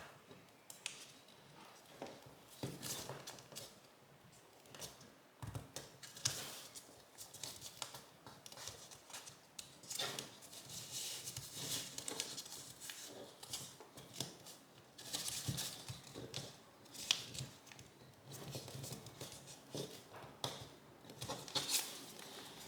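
Square of origami paper rustling and crinkling as it is folded and pressed into creases by hand. The sound comes as faint, irregular crackles and rustles with short pauses between them.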